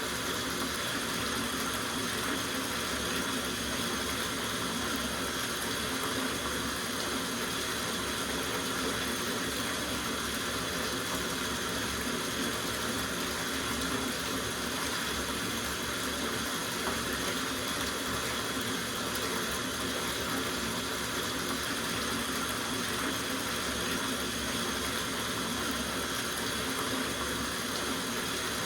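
Tap water running steadily into a bathtub: a constant splashing rush with no changes.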